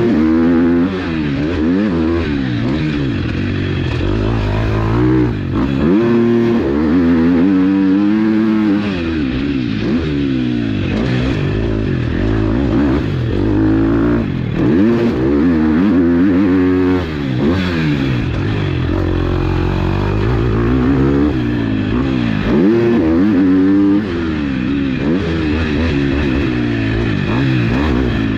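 KTM SX-F 250 four-stroke single-cylinder motocross engine under hard riding. Its pitch climbs and drops again and again, every second or two, as the throttle is opened, closed and the gears are changed.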